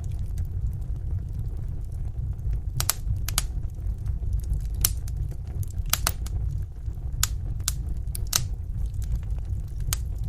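Wood fire burning in a fireplace: a steady low rumble of flames with sharp crackles and pops at irregular intervals.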